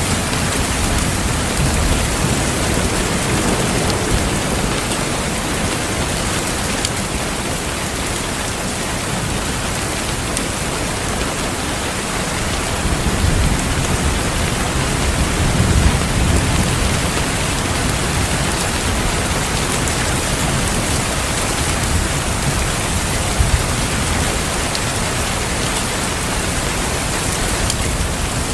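Steady, dense rain with low rumbles of thunder rolling underneath, swelling most about halfway through.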